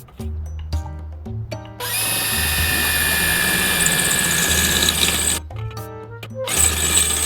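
A handheld power tool running against stainless steel, a loud rasping noise with a steady high whine. It runs for about three and a half seconds, stops, and starts again about a second later. Background music with a steady beat plays underneath.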